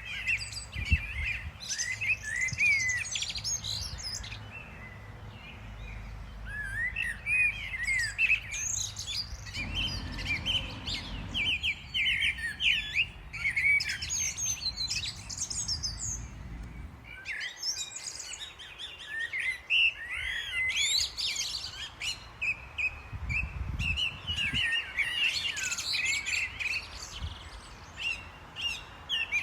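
Several small songbirds chirping and twittering, many short calls overlapping, with brief lulls, over a low rumble that comes and goes.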